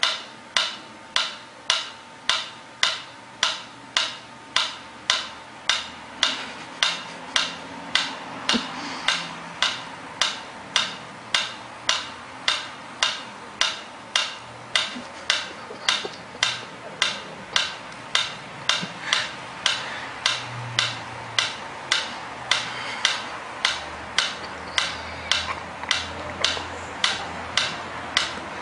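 Even mechanical ticking, about two sharp ticks a second, keeping a steady beat.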